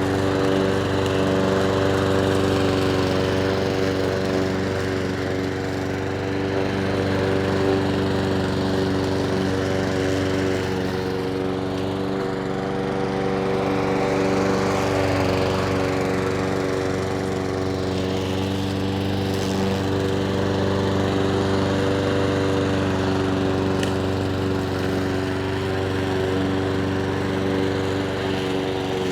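Petrol lawn mower engine running steadily at an even speed.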